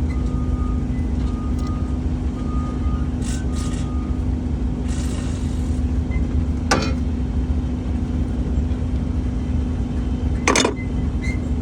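Steady low rumble and hum of running machinery, with a faint high tone coming and going and two sharp metallic knocks, about seven and ten and a half seconds in.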